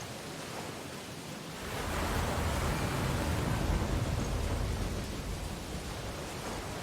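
Ocean waves breaking on a beach: a steady wash of surf that swells about two seconds in as a wave breaks, with a low rumble, then eases back.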